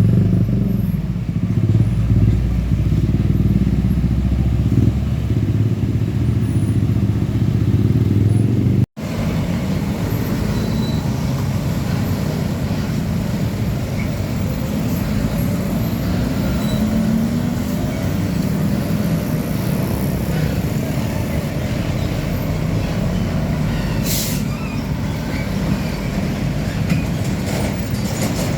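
Heavy diesel trucks running on a road, their engines heavy and low for the first nine seconds; after a sudden cut, steady traffic continues, with one engine's pitch rising and falling and a brief hiss near the end.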